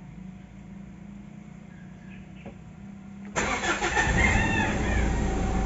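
Mitsubishi Montero's diesel engine being started: a faint steady hum, then it cranks and catches suddenly about three and a half seconds in and settles into a steady idle. This is a test start after its injectors were recalibrated to cure a misfire.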